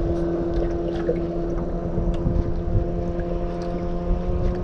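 A boat motor running steadily, holding a constant hum at an even pitch over a low rumble.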